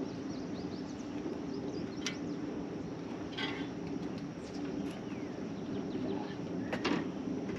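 Open-air marsh ambience: a steady low rumble with small bird chirps scattered through it, and a few short sharp sounds, the strongest near the end.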